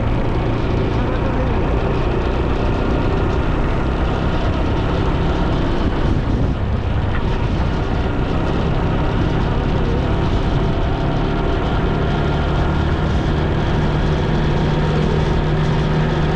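Motorcycle engine running steadily under way, with wind and road noise; the engine note rises a little about twelve seconds in.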